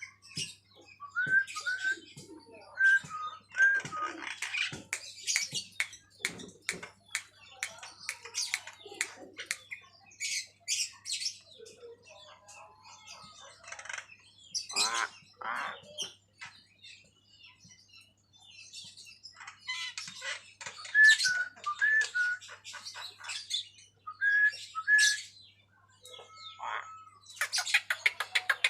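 Javan myna calling actively in bursts: short whistled notes mixed with clicks, harsh squawks and chatter, with a rapid rasping rattle near the end.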